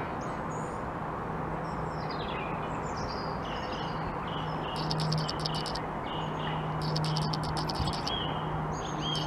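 Small birds chirping and whistling, with falling whistles, short arched notes and buzzy calls repeated every second or so, over a steady low hum.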